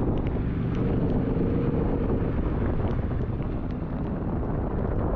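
Yamaha Ténéré 700 adventure motorcycle engine running steadily on a wet dirt road, with wind rushing over the microphone and scattered light ticks.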